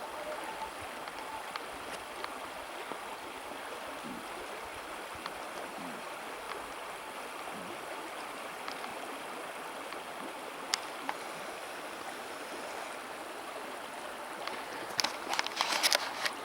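River water flowing with a steady rush. Near the end, a short cluster of knocks and clatter.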